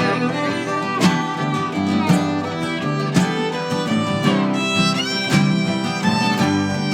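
Live band music in an instrumental passage: a bowed fiddle melody with some sliding notes over strummed guitar, with a strong beat about once a second.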